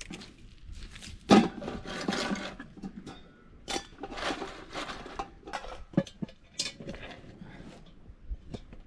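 Camp cooking gear being handled: an irregular run of knocks, clanks and rustling, with the loudest clank about a second and a half in.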